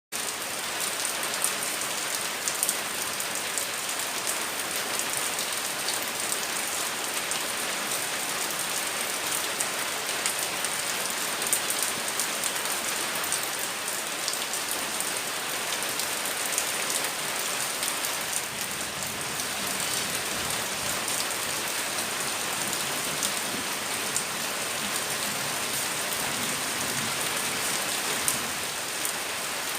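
Rain falling steadily, with scattered sharp drops striking close by.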